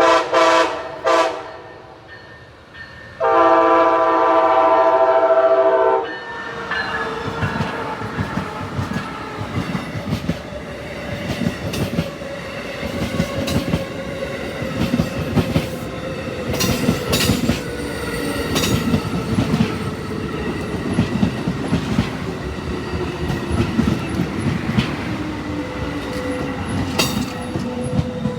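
Amtrak locomotive's Nathan K5LA chime horn sounding two short blasts and then one long blast, followed by the passenger train rolling past with wheels clicking over rail joints. A tone under the rolling noise falls slowly in pitch as the train slows for its station stop.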